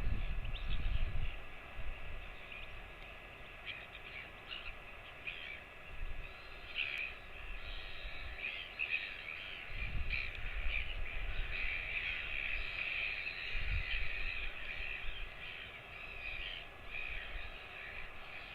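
Birds calling repeatedly in short, harsh, crow-like calls, densest in the second half. A few low rumbles come near the start and twice more later.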